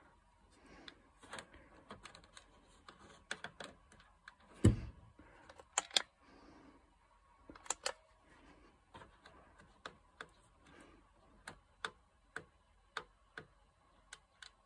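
Diesel heater's fuel pump ticking during a start-up attempt, irregular at first and then about twice a second. A louder thump comes about 4.5 s in. The uploader says the brand-new heater won't pump fuel, so it fails to start.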